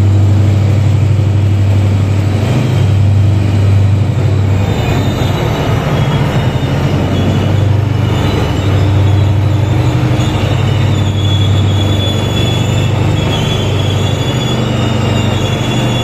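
A train rolling slowly through the station over a steady, loud low drone, with a high metallic squeal of several thin tones setting in about four or five seconds in and holding on.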